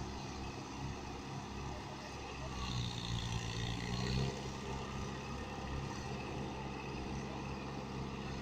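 Mahindra tractor diesel engine running steadily, a little louder about three to four seconds in.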